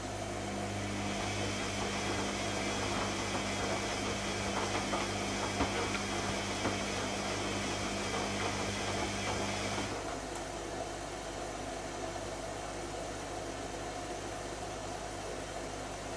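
Zanussi ZKN7120L washing machine running a cycle: a steady hum with a hiss over it, which cuts off about ten seconds in, leaving a quieter steady running noise.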